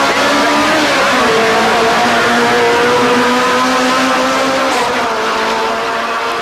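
Rally car engine running hard at fairly steady revs, its pitch dipping briefly about a second in and easing down slightly near the end.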